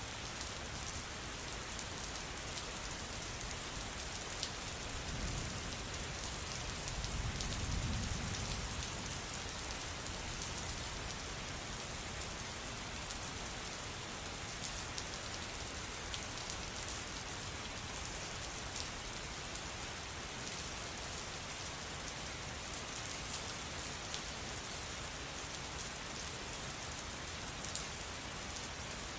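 Steady rain falling, with single drops ticking here and there. A brief low rumble swells and fades about a quarter of the way in.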